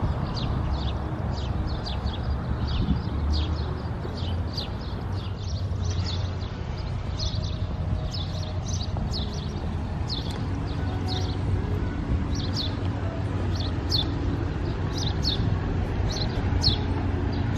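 Small birds chirping over and over, short high falling chirps a few times a second, over a steady low outdoor rumble.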